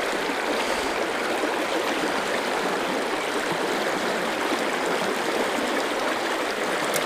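Fast-flowing river water rushing and splashing over rocks, a steady noise close to the microphone.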